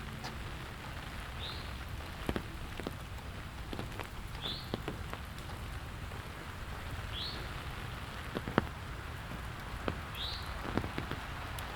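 Steady rain falling, with scattered louder drops tapping close by. A short high chirp repeats about every three seconds.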